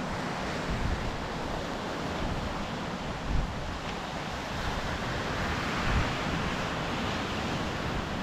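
Sea waves washing onto the shore in a steady rush that swells about five seconds in, with wind buffeting the microphone in low gusts.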